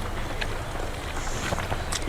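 Steady low rumble, like wind on the microphone, with a few faint clicks of eating, chewing and hands working rice and curry on a banana leaf.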